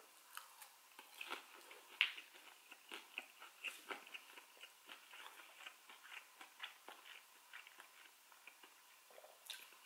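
A person chewing a mouthful of bacon-wrapped bluegill with crispy, burnt bacon: faint, irregular small clicks and crunches of chewing, with a sharper one about two seconds in.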